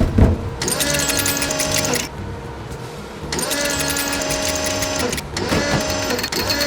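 Cartoon machine sound effect: a small motor whirs up, runs with fast, even clicking and winds down again, three times in a row with short pauses between. A low thud comes right at the start.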